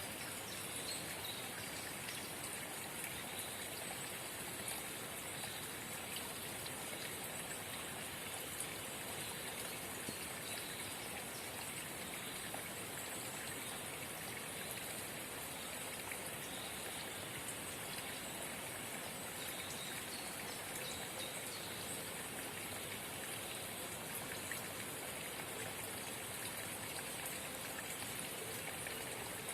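Small forest spring babbling and trickling steadily, an even rush of water with no breaks.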